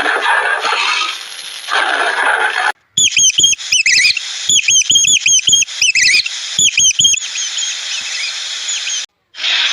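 A small animal's high-pitched chirps or squeaks, repeated quickly in runs for about four seconds. Before them comes a couple of seconds of unidentified noise, and each part starts and stops with an abrupt cut.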